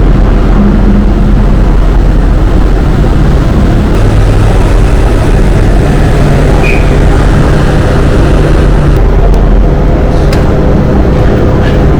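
Loud, steady low drone of a car ferry's engines running as it lies at the dock.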